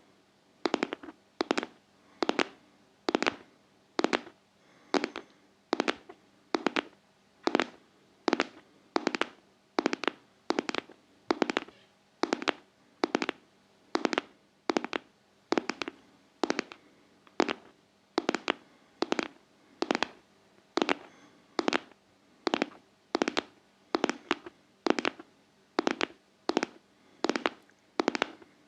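ASMR tapping: sharp, crisp taps at about one a second, some in quick pairs, kept up in an even rhythm.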